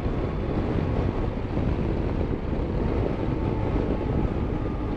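Motorcycle riding at steady road speed: a steady engine and road rumble with wind rushing over the microphone.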